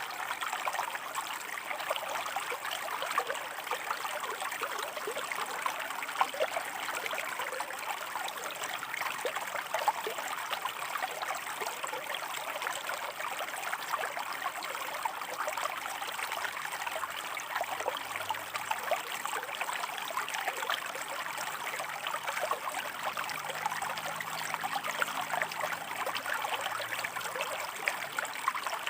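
Water of a shallow forest river running over rocks: a steady rush with many small trickling splashes.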